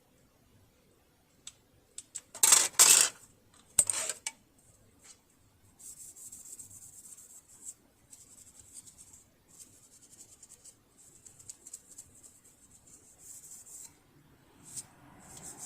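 Hands working on a sewing machine under repair: a few loud metallic clinks and clatters about two to four seconds in, then quieter intermittent scraping and rubbing.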